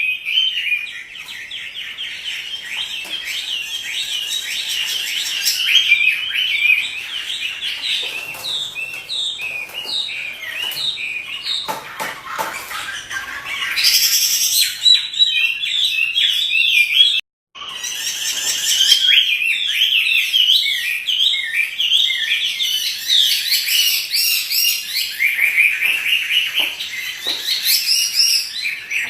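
Chinese hwamei singing a long, unbroken run of rapid, varied whistled phrases, with the sound cutting out for a moment about seventeen seconds in.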